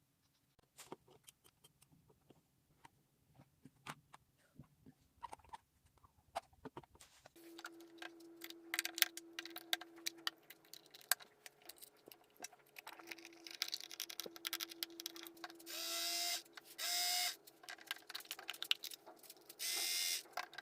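Clicks from handling a battery-powered plastic toy appliance, then about seven seconds in its small motor starts with a steady hum, pausing briefly and resuming, with clicks over it. Near the end come three short, loud hissing bursts.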